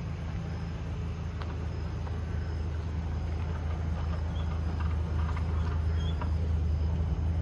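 Ford E350 box truck's 6.8-litre V10 petrol engine idling with a steady low hum, a little louder toward the end, with faint scattered ticks and chirps over it.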